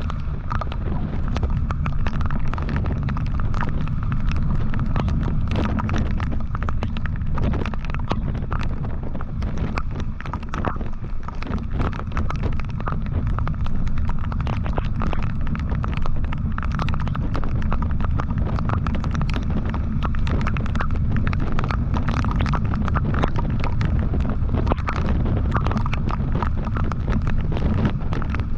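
Onboard sound of a motorcycle riding at speed: a steady low rumble of wind buffeting the microphone over the engine and road noise, with frequent small crackles throughout.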